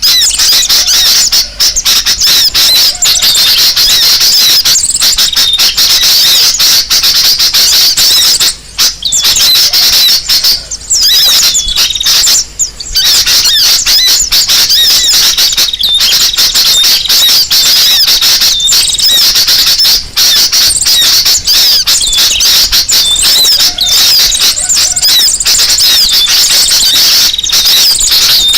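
Bird-lure call recording: many small birds chirping and twittering at once in a dense, loud, high-pitched chatter, broken by short gaps about 9, 11 and 13 seconds in.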